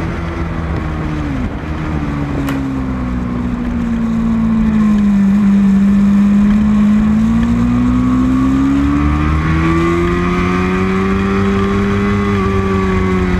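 Racing motorcycle engine running hard on track, its pitch sinking slowly for about six seconds and then climbing again, over a steady low rumble.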